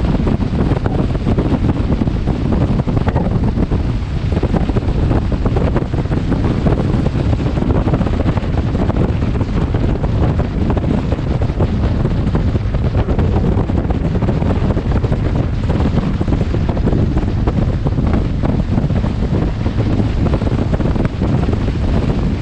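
Wind buffeting a motorcycle helmet camera's microphone while riding: a loud, steady, low rushing rumble.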